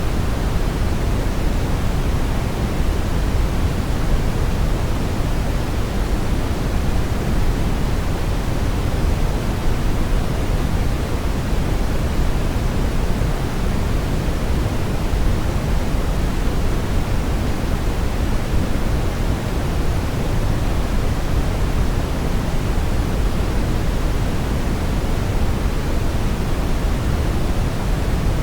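Steady synthetic brown noise: an even, deep rushing hiss, strongest in the bass and falling off toward the treble, with no changes.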